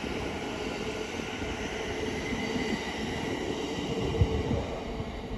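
Thameslink Class 700 electric multiple unit running slowly through the station: a steady rail rumble with a faint electric whine. A short knock sounds about four seconds in.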